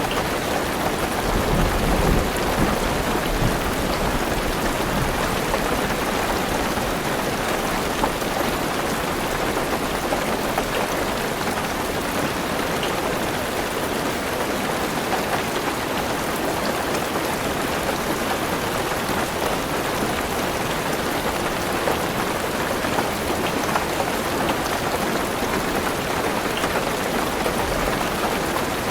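Heavy rain drumming steadily on a car roof, heard from inside the car, with a low rumble of thunder about two seconds in and again near the end.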